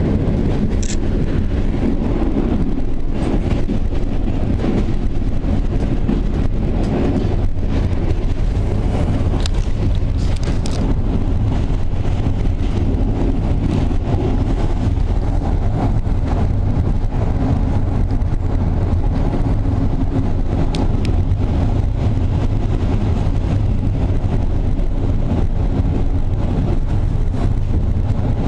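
Passenger train running along the line, heard from aboard: a steady low rumble of wheels on the track, with a few brief high squeaks or ticks now and then.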